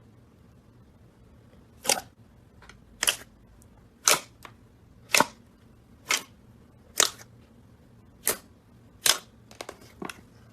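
A series of sharp clicks or snaps, about one a second, eight in all, followed by a quick flurry of fainter ticks near the end.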